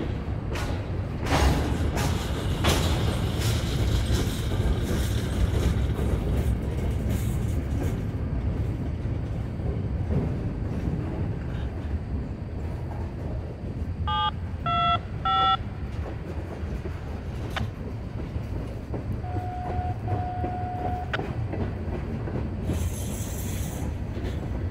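Freight train of hopper cars rolling past close by: a steady low rumble with clacks of wheels over the rail joints, most of them in the first third. A few short high tones sound about two-thirds of the way through, and a brief hiss comes near the end.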